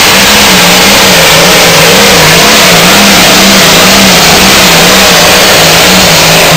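Turbocharged diesel pulling-tractor engine running at full power under load, very loud. Its pitch wavers up and down about twice a second.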